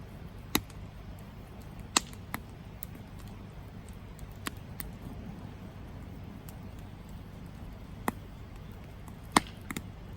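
Campfire burning with a low steady rumble of flames and sharp, irregular crackles and pops from the burning wood, about half a dozen in all, the loudest near the end.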